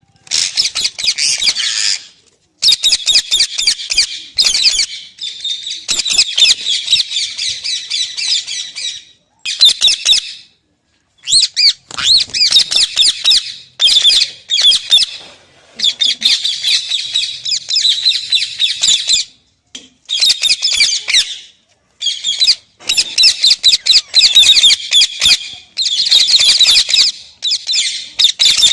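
Parrot squawking and chattering in rapid runs of harsh, high calls, in bouts of a few seconds with short pauses between.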